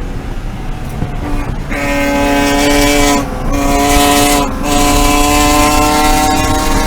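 BMW E36 M3 race car's inline-six engine picks up load about two seconds in and runs at fairly steady revs, broken by two short dips in the middle.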